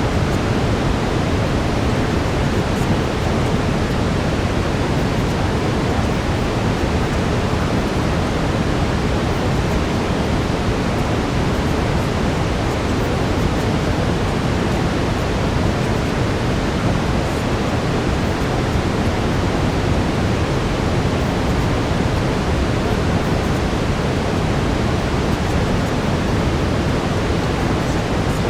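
Steady brown noise: an even, unchanging rushing hiss, heaviest in the low end.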